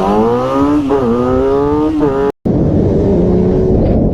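Motorcycle engine accelerating hard, its pitch climbing and then falling back at each upshift, twice. The sound cuts out abruptly for a moment past the halfway point, then a steadier, lower engine note follows.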